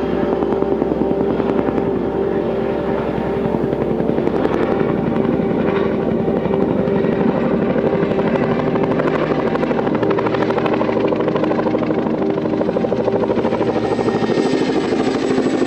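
CH-47 Chinook tandem-rotor helicopter running steadily, its rotors beating rapidly over the drone of its twin turboshaft engines. A high turbine whine grows stronger near the end.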